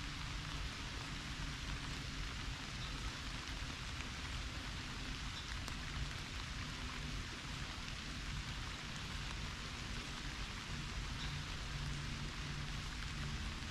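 Pouring rain falling steadily, recorded by a camera sitting out in it, with a constant hiss and scattered drop ticks over a low steady rumble.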